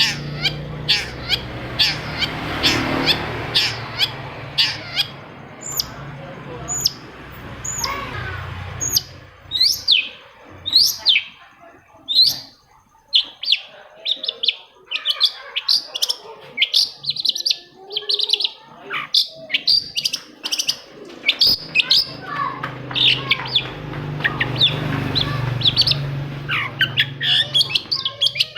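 Long-tailed shrike (cendet) singing a rapid run of sharp chirps and quick downward-sliding whistles, one after another. A low steady hum with hiss lies under the song for the first third and again near the end.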